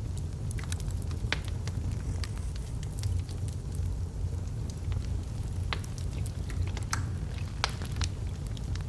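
Logs burning in a fireplace: a steady low rumble of flames with irregular sharp crackles and pops, a few louder snaps among them.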